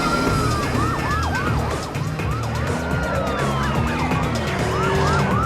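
Several police car sirens sounding at once, their pitches sweeping up and down and overlapping, some in quick repeated yelps, over a steady low rumble.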